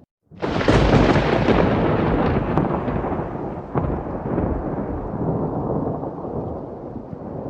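Thunderclap from a thunderstorm recording, breaking in suddenly about half a second in after a brief gap, then rumbling and slowly fading over steady rain, with a second sharp crack near four seconds.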